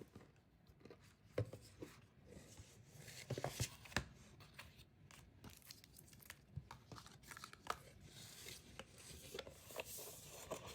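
Plastic rustling and crinkling as photocards are slid back into plastic sleeves, with small irregular taps and clicks. It is faint, and busiest about three to four seconds in.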